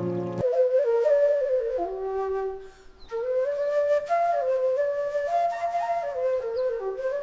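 Background music: a slow solo flute melody whose notes slide between pitches. The lower accompaniment drops out just after the start, leaving the flute alone, and there is a brief pause about a third of the way in.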